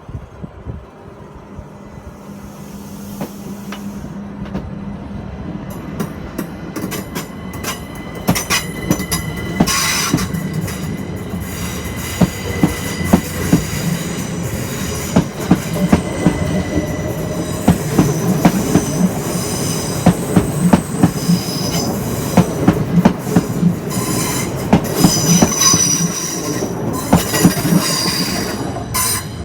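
Train rolling on the rails and getting louder as it approaches, its wheels clicking over rail joints and points, with high-pitched wheel squeal in the later part. The sound cuts off suddenly at the end.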